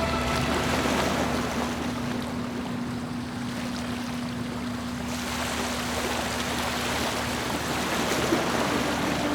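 Waves washing against a catamaran's hulls, with wind noise, as an even rushing sound. A faint low steady hum fades out about seven seconds in.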